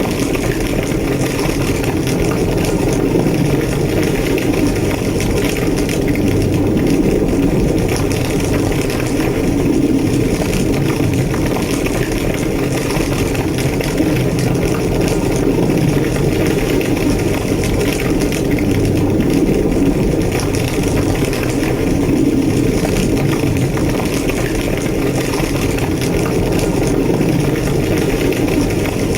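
A large structure fire burning: a steady, deep roar of flames with fine crackling running through it.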